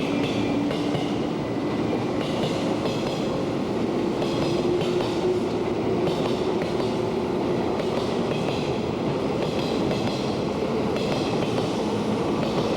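JR Joban Line 203 series electric train running. Its motor tone rises slowly in pitch as it gathers speed, over a steady rumble with repeated wheel clatter on the rails.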